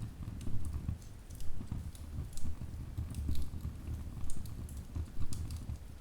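Wood fire in a fireplace crackling, with irregular sharp pops and snaps, several a second, over a low steady rumble of burning.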